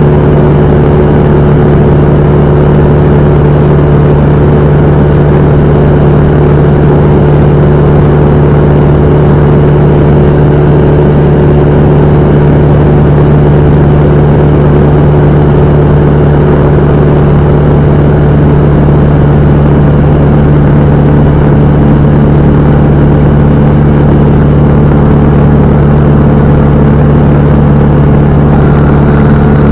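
Cessna 172M's Lycoming O-320 four-cylinder engine and propeller running with a steady drone; its tone shifts slightly near the end.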